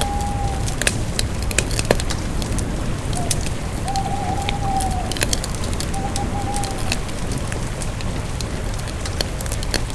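Campfire crackling, with frequent sharp pops and snaps over a low, steady rumble. Three faint, drawn-out wavering tones, each under about a second, sound near the start, around the middle and a little after.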